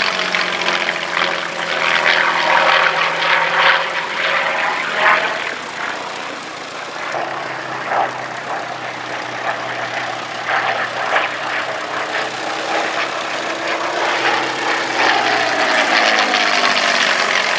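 Yak-3 fighter with an Allison V12 piston engine flying a fast display pass. Its engine note drops in pitch as it goes by at the start, eases off about six seconds in, and climbs again as it comes back near the end.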